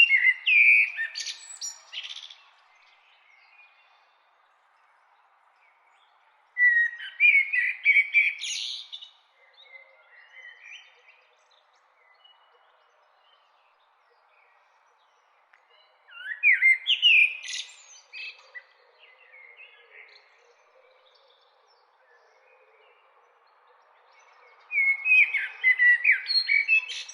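A songbird singing loud phrases of quick, varied rising and falling notes, each about two seconds long, repeated four times roughly every eight seconds, over faint steady background noise.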